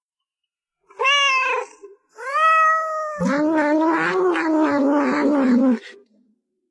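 A cat meows twice, then lets out a long, low, wavering yowl lasting about two and a half seconds.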